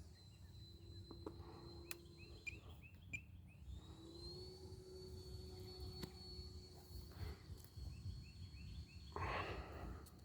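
Faint, distant whine of an Arrows F-86 Sabre RC jet's electric ducted fan in flight, holding a steady high pitch that rises a little about four seconds in as the throttle comes up. A short rush of noise comes near the end.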